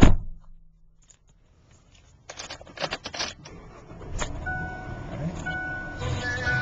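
A 2008 Ford F-150's door shuts with a thump. A couple of seconds later keys jangle at the ignition and the engine starts, settling into a steady idle. Near the end the radio comes on with steady tones.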